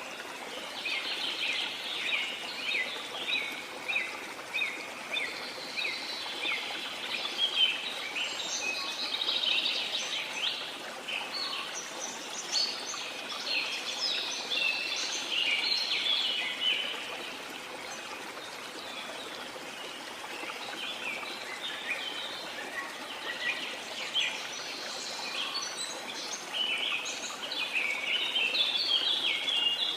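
Rainforest ambience: a chorus of many small birds chirping and twittering over a steady hiss of falling rain and running water. The birdsong thins out for a few seconds past the middle, then picks up again near the end.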